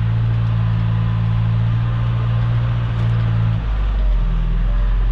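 Diesel engine of earthmoving equipment running steadily; about three and a half seconds in its note changes and deepens into a lower rumble.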